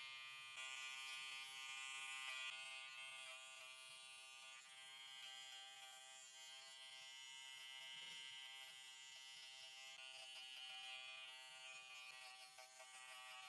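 Small electric pet grooming tool, such as paw-hair clippers or a nail grinder, buzzing steadily during a dog's paw trim, its pitch dipping slightly now and then.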